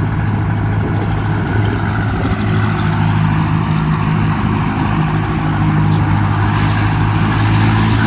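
Turbocharged diesel engine of a Mahindra Arjun Novo tractor running loud and steady at full throttle, with its newly fitted turbo. Near the end the engine note shifts.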